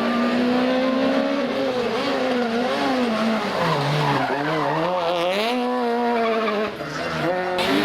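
Rally car engine at high revs, its pitch holding high, dropping around the middle as the revs fall and climbing again, with tyres squealing.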